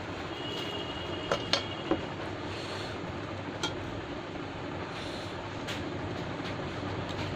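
Eating sounds over a steady background rumble: a few sharp clicks about a second and a half in and once more past three and a half seconds, and a brief thin high tone in the first two seconds.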